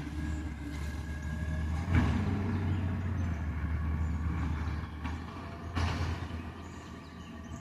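Recycling truck's diesel engine running steadily, with a sharp clank about two seconds in and a short burst of noise just before six seconds.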